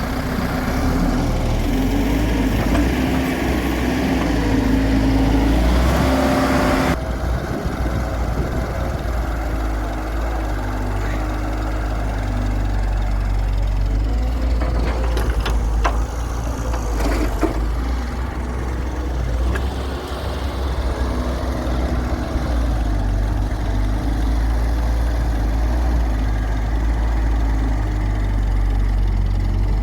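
Diesel engine of a Hyundai wheeled excavator running under changing load while it digs and loads mud, with a few sharp knocks about halfway through.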